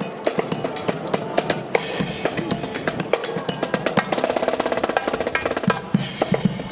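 Marching band percussion playing: rapid snare drum strokes and rolls over bass drum beats, with brief held tones from other instruments about halfway through.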